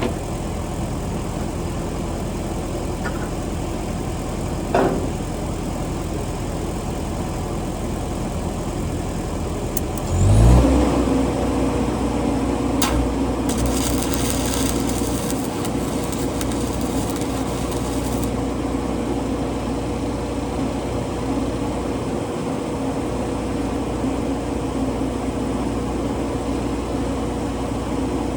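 Engine-driven welding machine's engine running steadily, then about ten seconds in it speeds up with a rising pitch and holds a higher, louder hum, as these machines do when the arc is struck. A brief knock comes about five seconds in, and a high hiss runs for several seconds after the engine speeds up.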